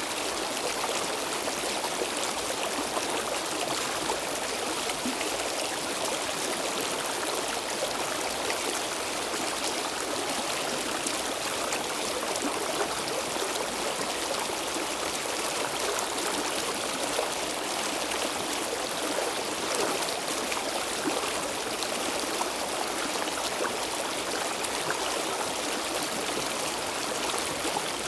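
A stream flowing steadily over rocks, an even babble and splashing with no let-up.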